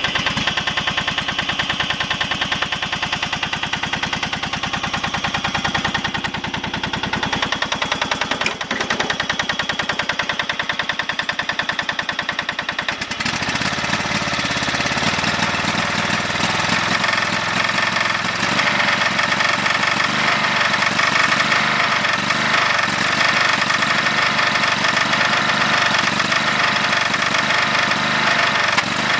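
Craftsman GT5000 garden tractor engine running with a regular knock, which the owner takes for rod knock. About halfway through it runs louder.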